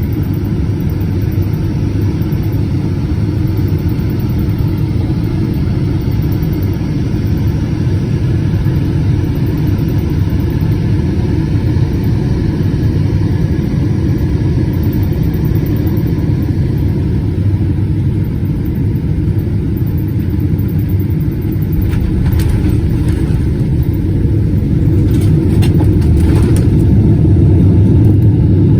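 Cabin noise inside a Boeing 777-200ER on approach: a steady low rumble of engines and airflow that grows a little louder near the end, with a few faint ticks.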